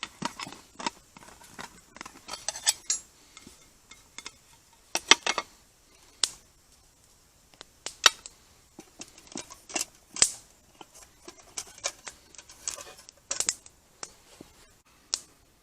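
Irregular clicking and clinking of a utensil against a container as eggs are whipped up, with a quick run of clicks about two and a half seconds in and single sharper knocks now and then.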